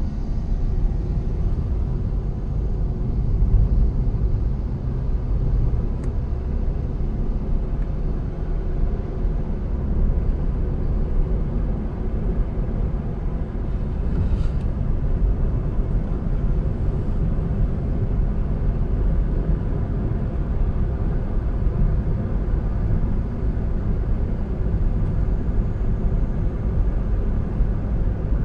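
A car driving along a road: a steady low rumble of engine and tyre noise, with no marked changes in speed.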